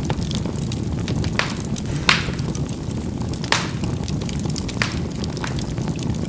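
Charcoal burning in a fireplace: a steady low rush of flame with constant small crackles and a handful of sharp pops, the loudest about two seconds in.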